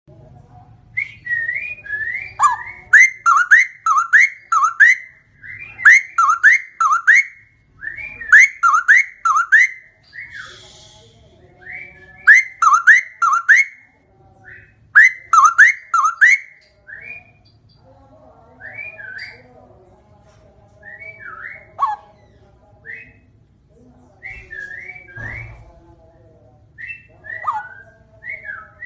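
Straw-headed bulbul (cucak rowo) singing: loud, fluty phrases of three or four quick swooping notes, repeated every couple of seconds. In the second half the song thins to scattered single notes before a full phrase returns near the end.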